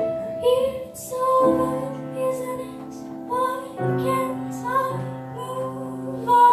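A ballad with piano accompaniment and a female voice singing a melody over held piano chords.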